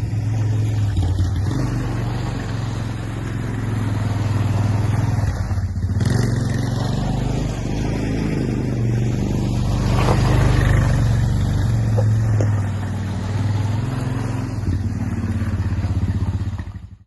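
Honda TRX250 quad bike's single-cylinder four-stroke engine running while the bike is ridden, its level rising and falling. The sound cuts off suddenly at the end.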